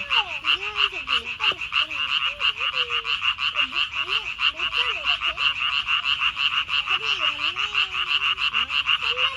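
A chorus of many frogs calling loudly together from a pond, a dense, rapid, unbroken pulsing of overlapping croaks.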